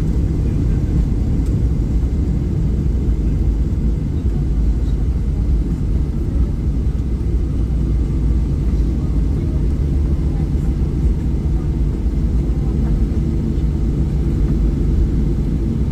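Steady low rumble of a Boeing 737-800 heard from inside the passenger cabin: its engines and the airflow past the fuselage.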